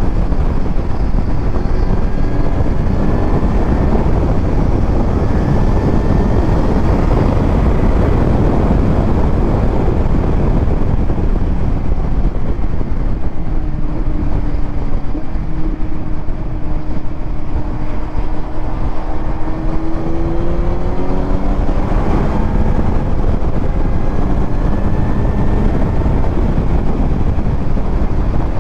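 Kawasaki Z900's inline-four engine through a titanium Arrow exhaust, running on the road under heavy wind rush on the microphone. The engine note climbs slowly for several seconds at a time and drops about 22 seconds in, as with throttle and gear changes.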